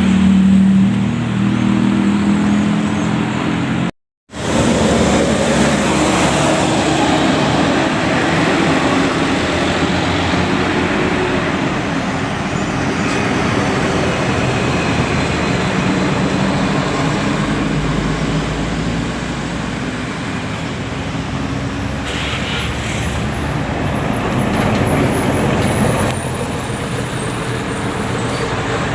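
Road traffic with heavy diesel buses and trucks running and passing, engine drone over tyre and road noise. There is a brief break about four seconds in.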